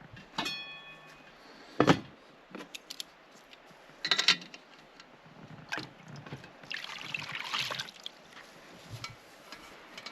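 A series of knocks and clatters from objects being handled: a short metallic clang that rings briefly about half a second in, a loud knock near two seconds, a sharp clatter around four seconds, and a stretch of scraping or rustling about two-thirds of the way through.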